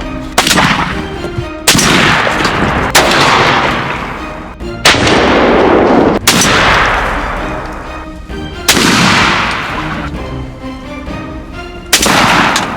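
Shotgun blasts, about seven in a row a second or two apart, each sharp crack followed by a long fading echo, over background music.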